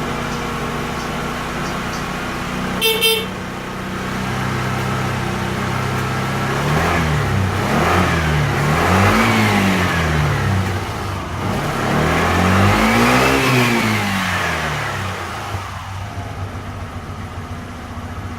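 Suzuki Address V125G scooter's 125 cc single-cylinder four-stroke engine idling, with a short beep about three seconds in. Partway through it is revved several times, the pitch rising and falling with each blip, the last one longer, then it drops back to a steady idle.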